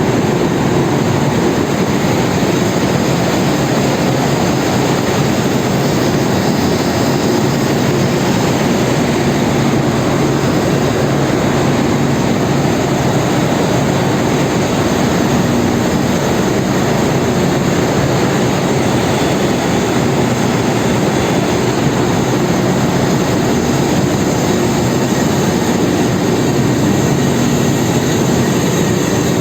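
Loud, steady machinery noise of a tanker's engine room, a dense constant din with a low hum running through it.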